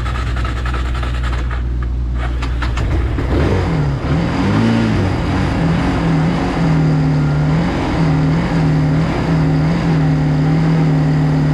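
Small motorbike engine running, low and steady at first. About three seconds in it is revved up, rising and falling a few times, then holds at a steady higher speed with brief dips. It runs now that the fuel valve is open, after the engine had been starved of gas.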